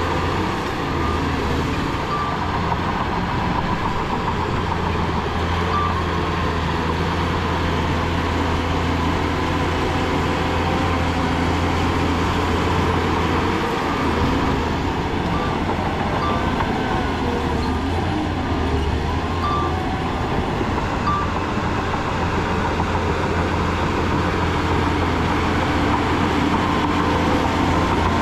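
Heavy diesel earthmoving machinery running steadily, with a deep, even engine hum. A few short, faint high tones come through now and then.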